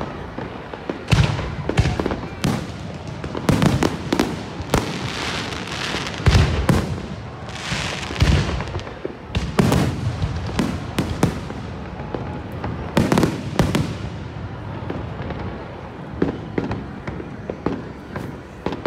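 Fireworks display: aerial shells bursting one after another in a rapid run of booms, thinning out over the last few seconds.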